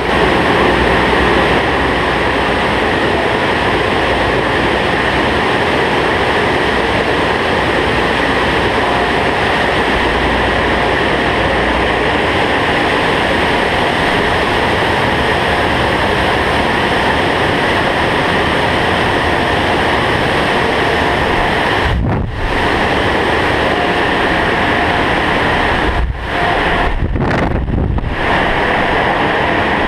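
Automatic car wash water jets spraying steadily onto a person in the wash bay, a loud rushing hiss with no soap cycle, just rinse water. The hiss briefly drops away a few times in the last third as the spray shifts.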